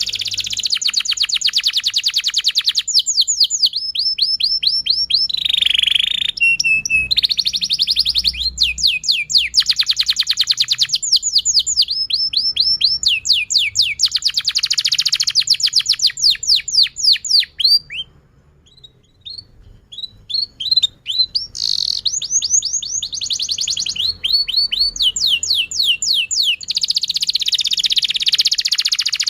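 Domestic canary singing a long song made of rapid trills, each a fast run of the same high chirp repeated many times a second. It switches from one trill to the next every second or two, with a short break a little past halfway.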